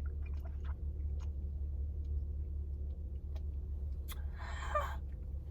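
Steady low rumble of an idling car heard inside the cabin, with faint scattered clicks and taps from a silicone straw and drink cup being handled. A short rustle about four seconds in.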